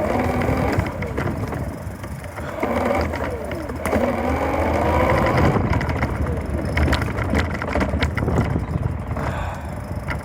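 Bicycle ride over a rough trail: a continuous low rumble with rattles and clicks, wind on the microphone, and a few short squeaking tones that slide downward.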